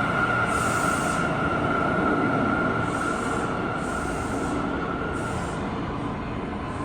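New York City subway train running through the station, its rumble with a steady high whine that fades out about five seconds in, the whole sound gradually getting quieter.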